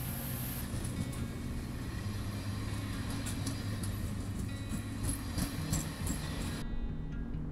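Caltrain commuter train passing close by: a steady rolling rumble with irregular clicks and clatter from the wheels on the rails, under background guitar music. The train noise cuts off suddenly about seven seconds in, leaving the music.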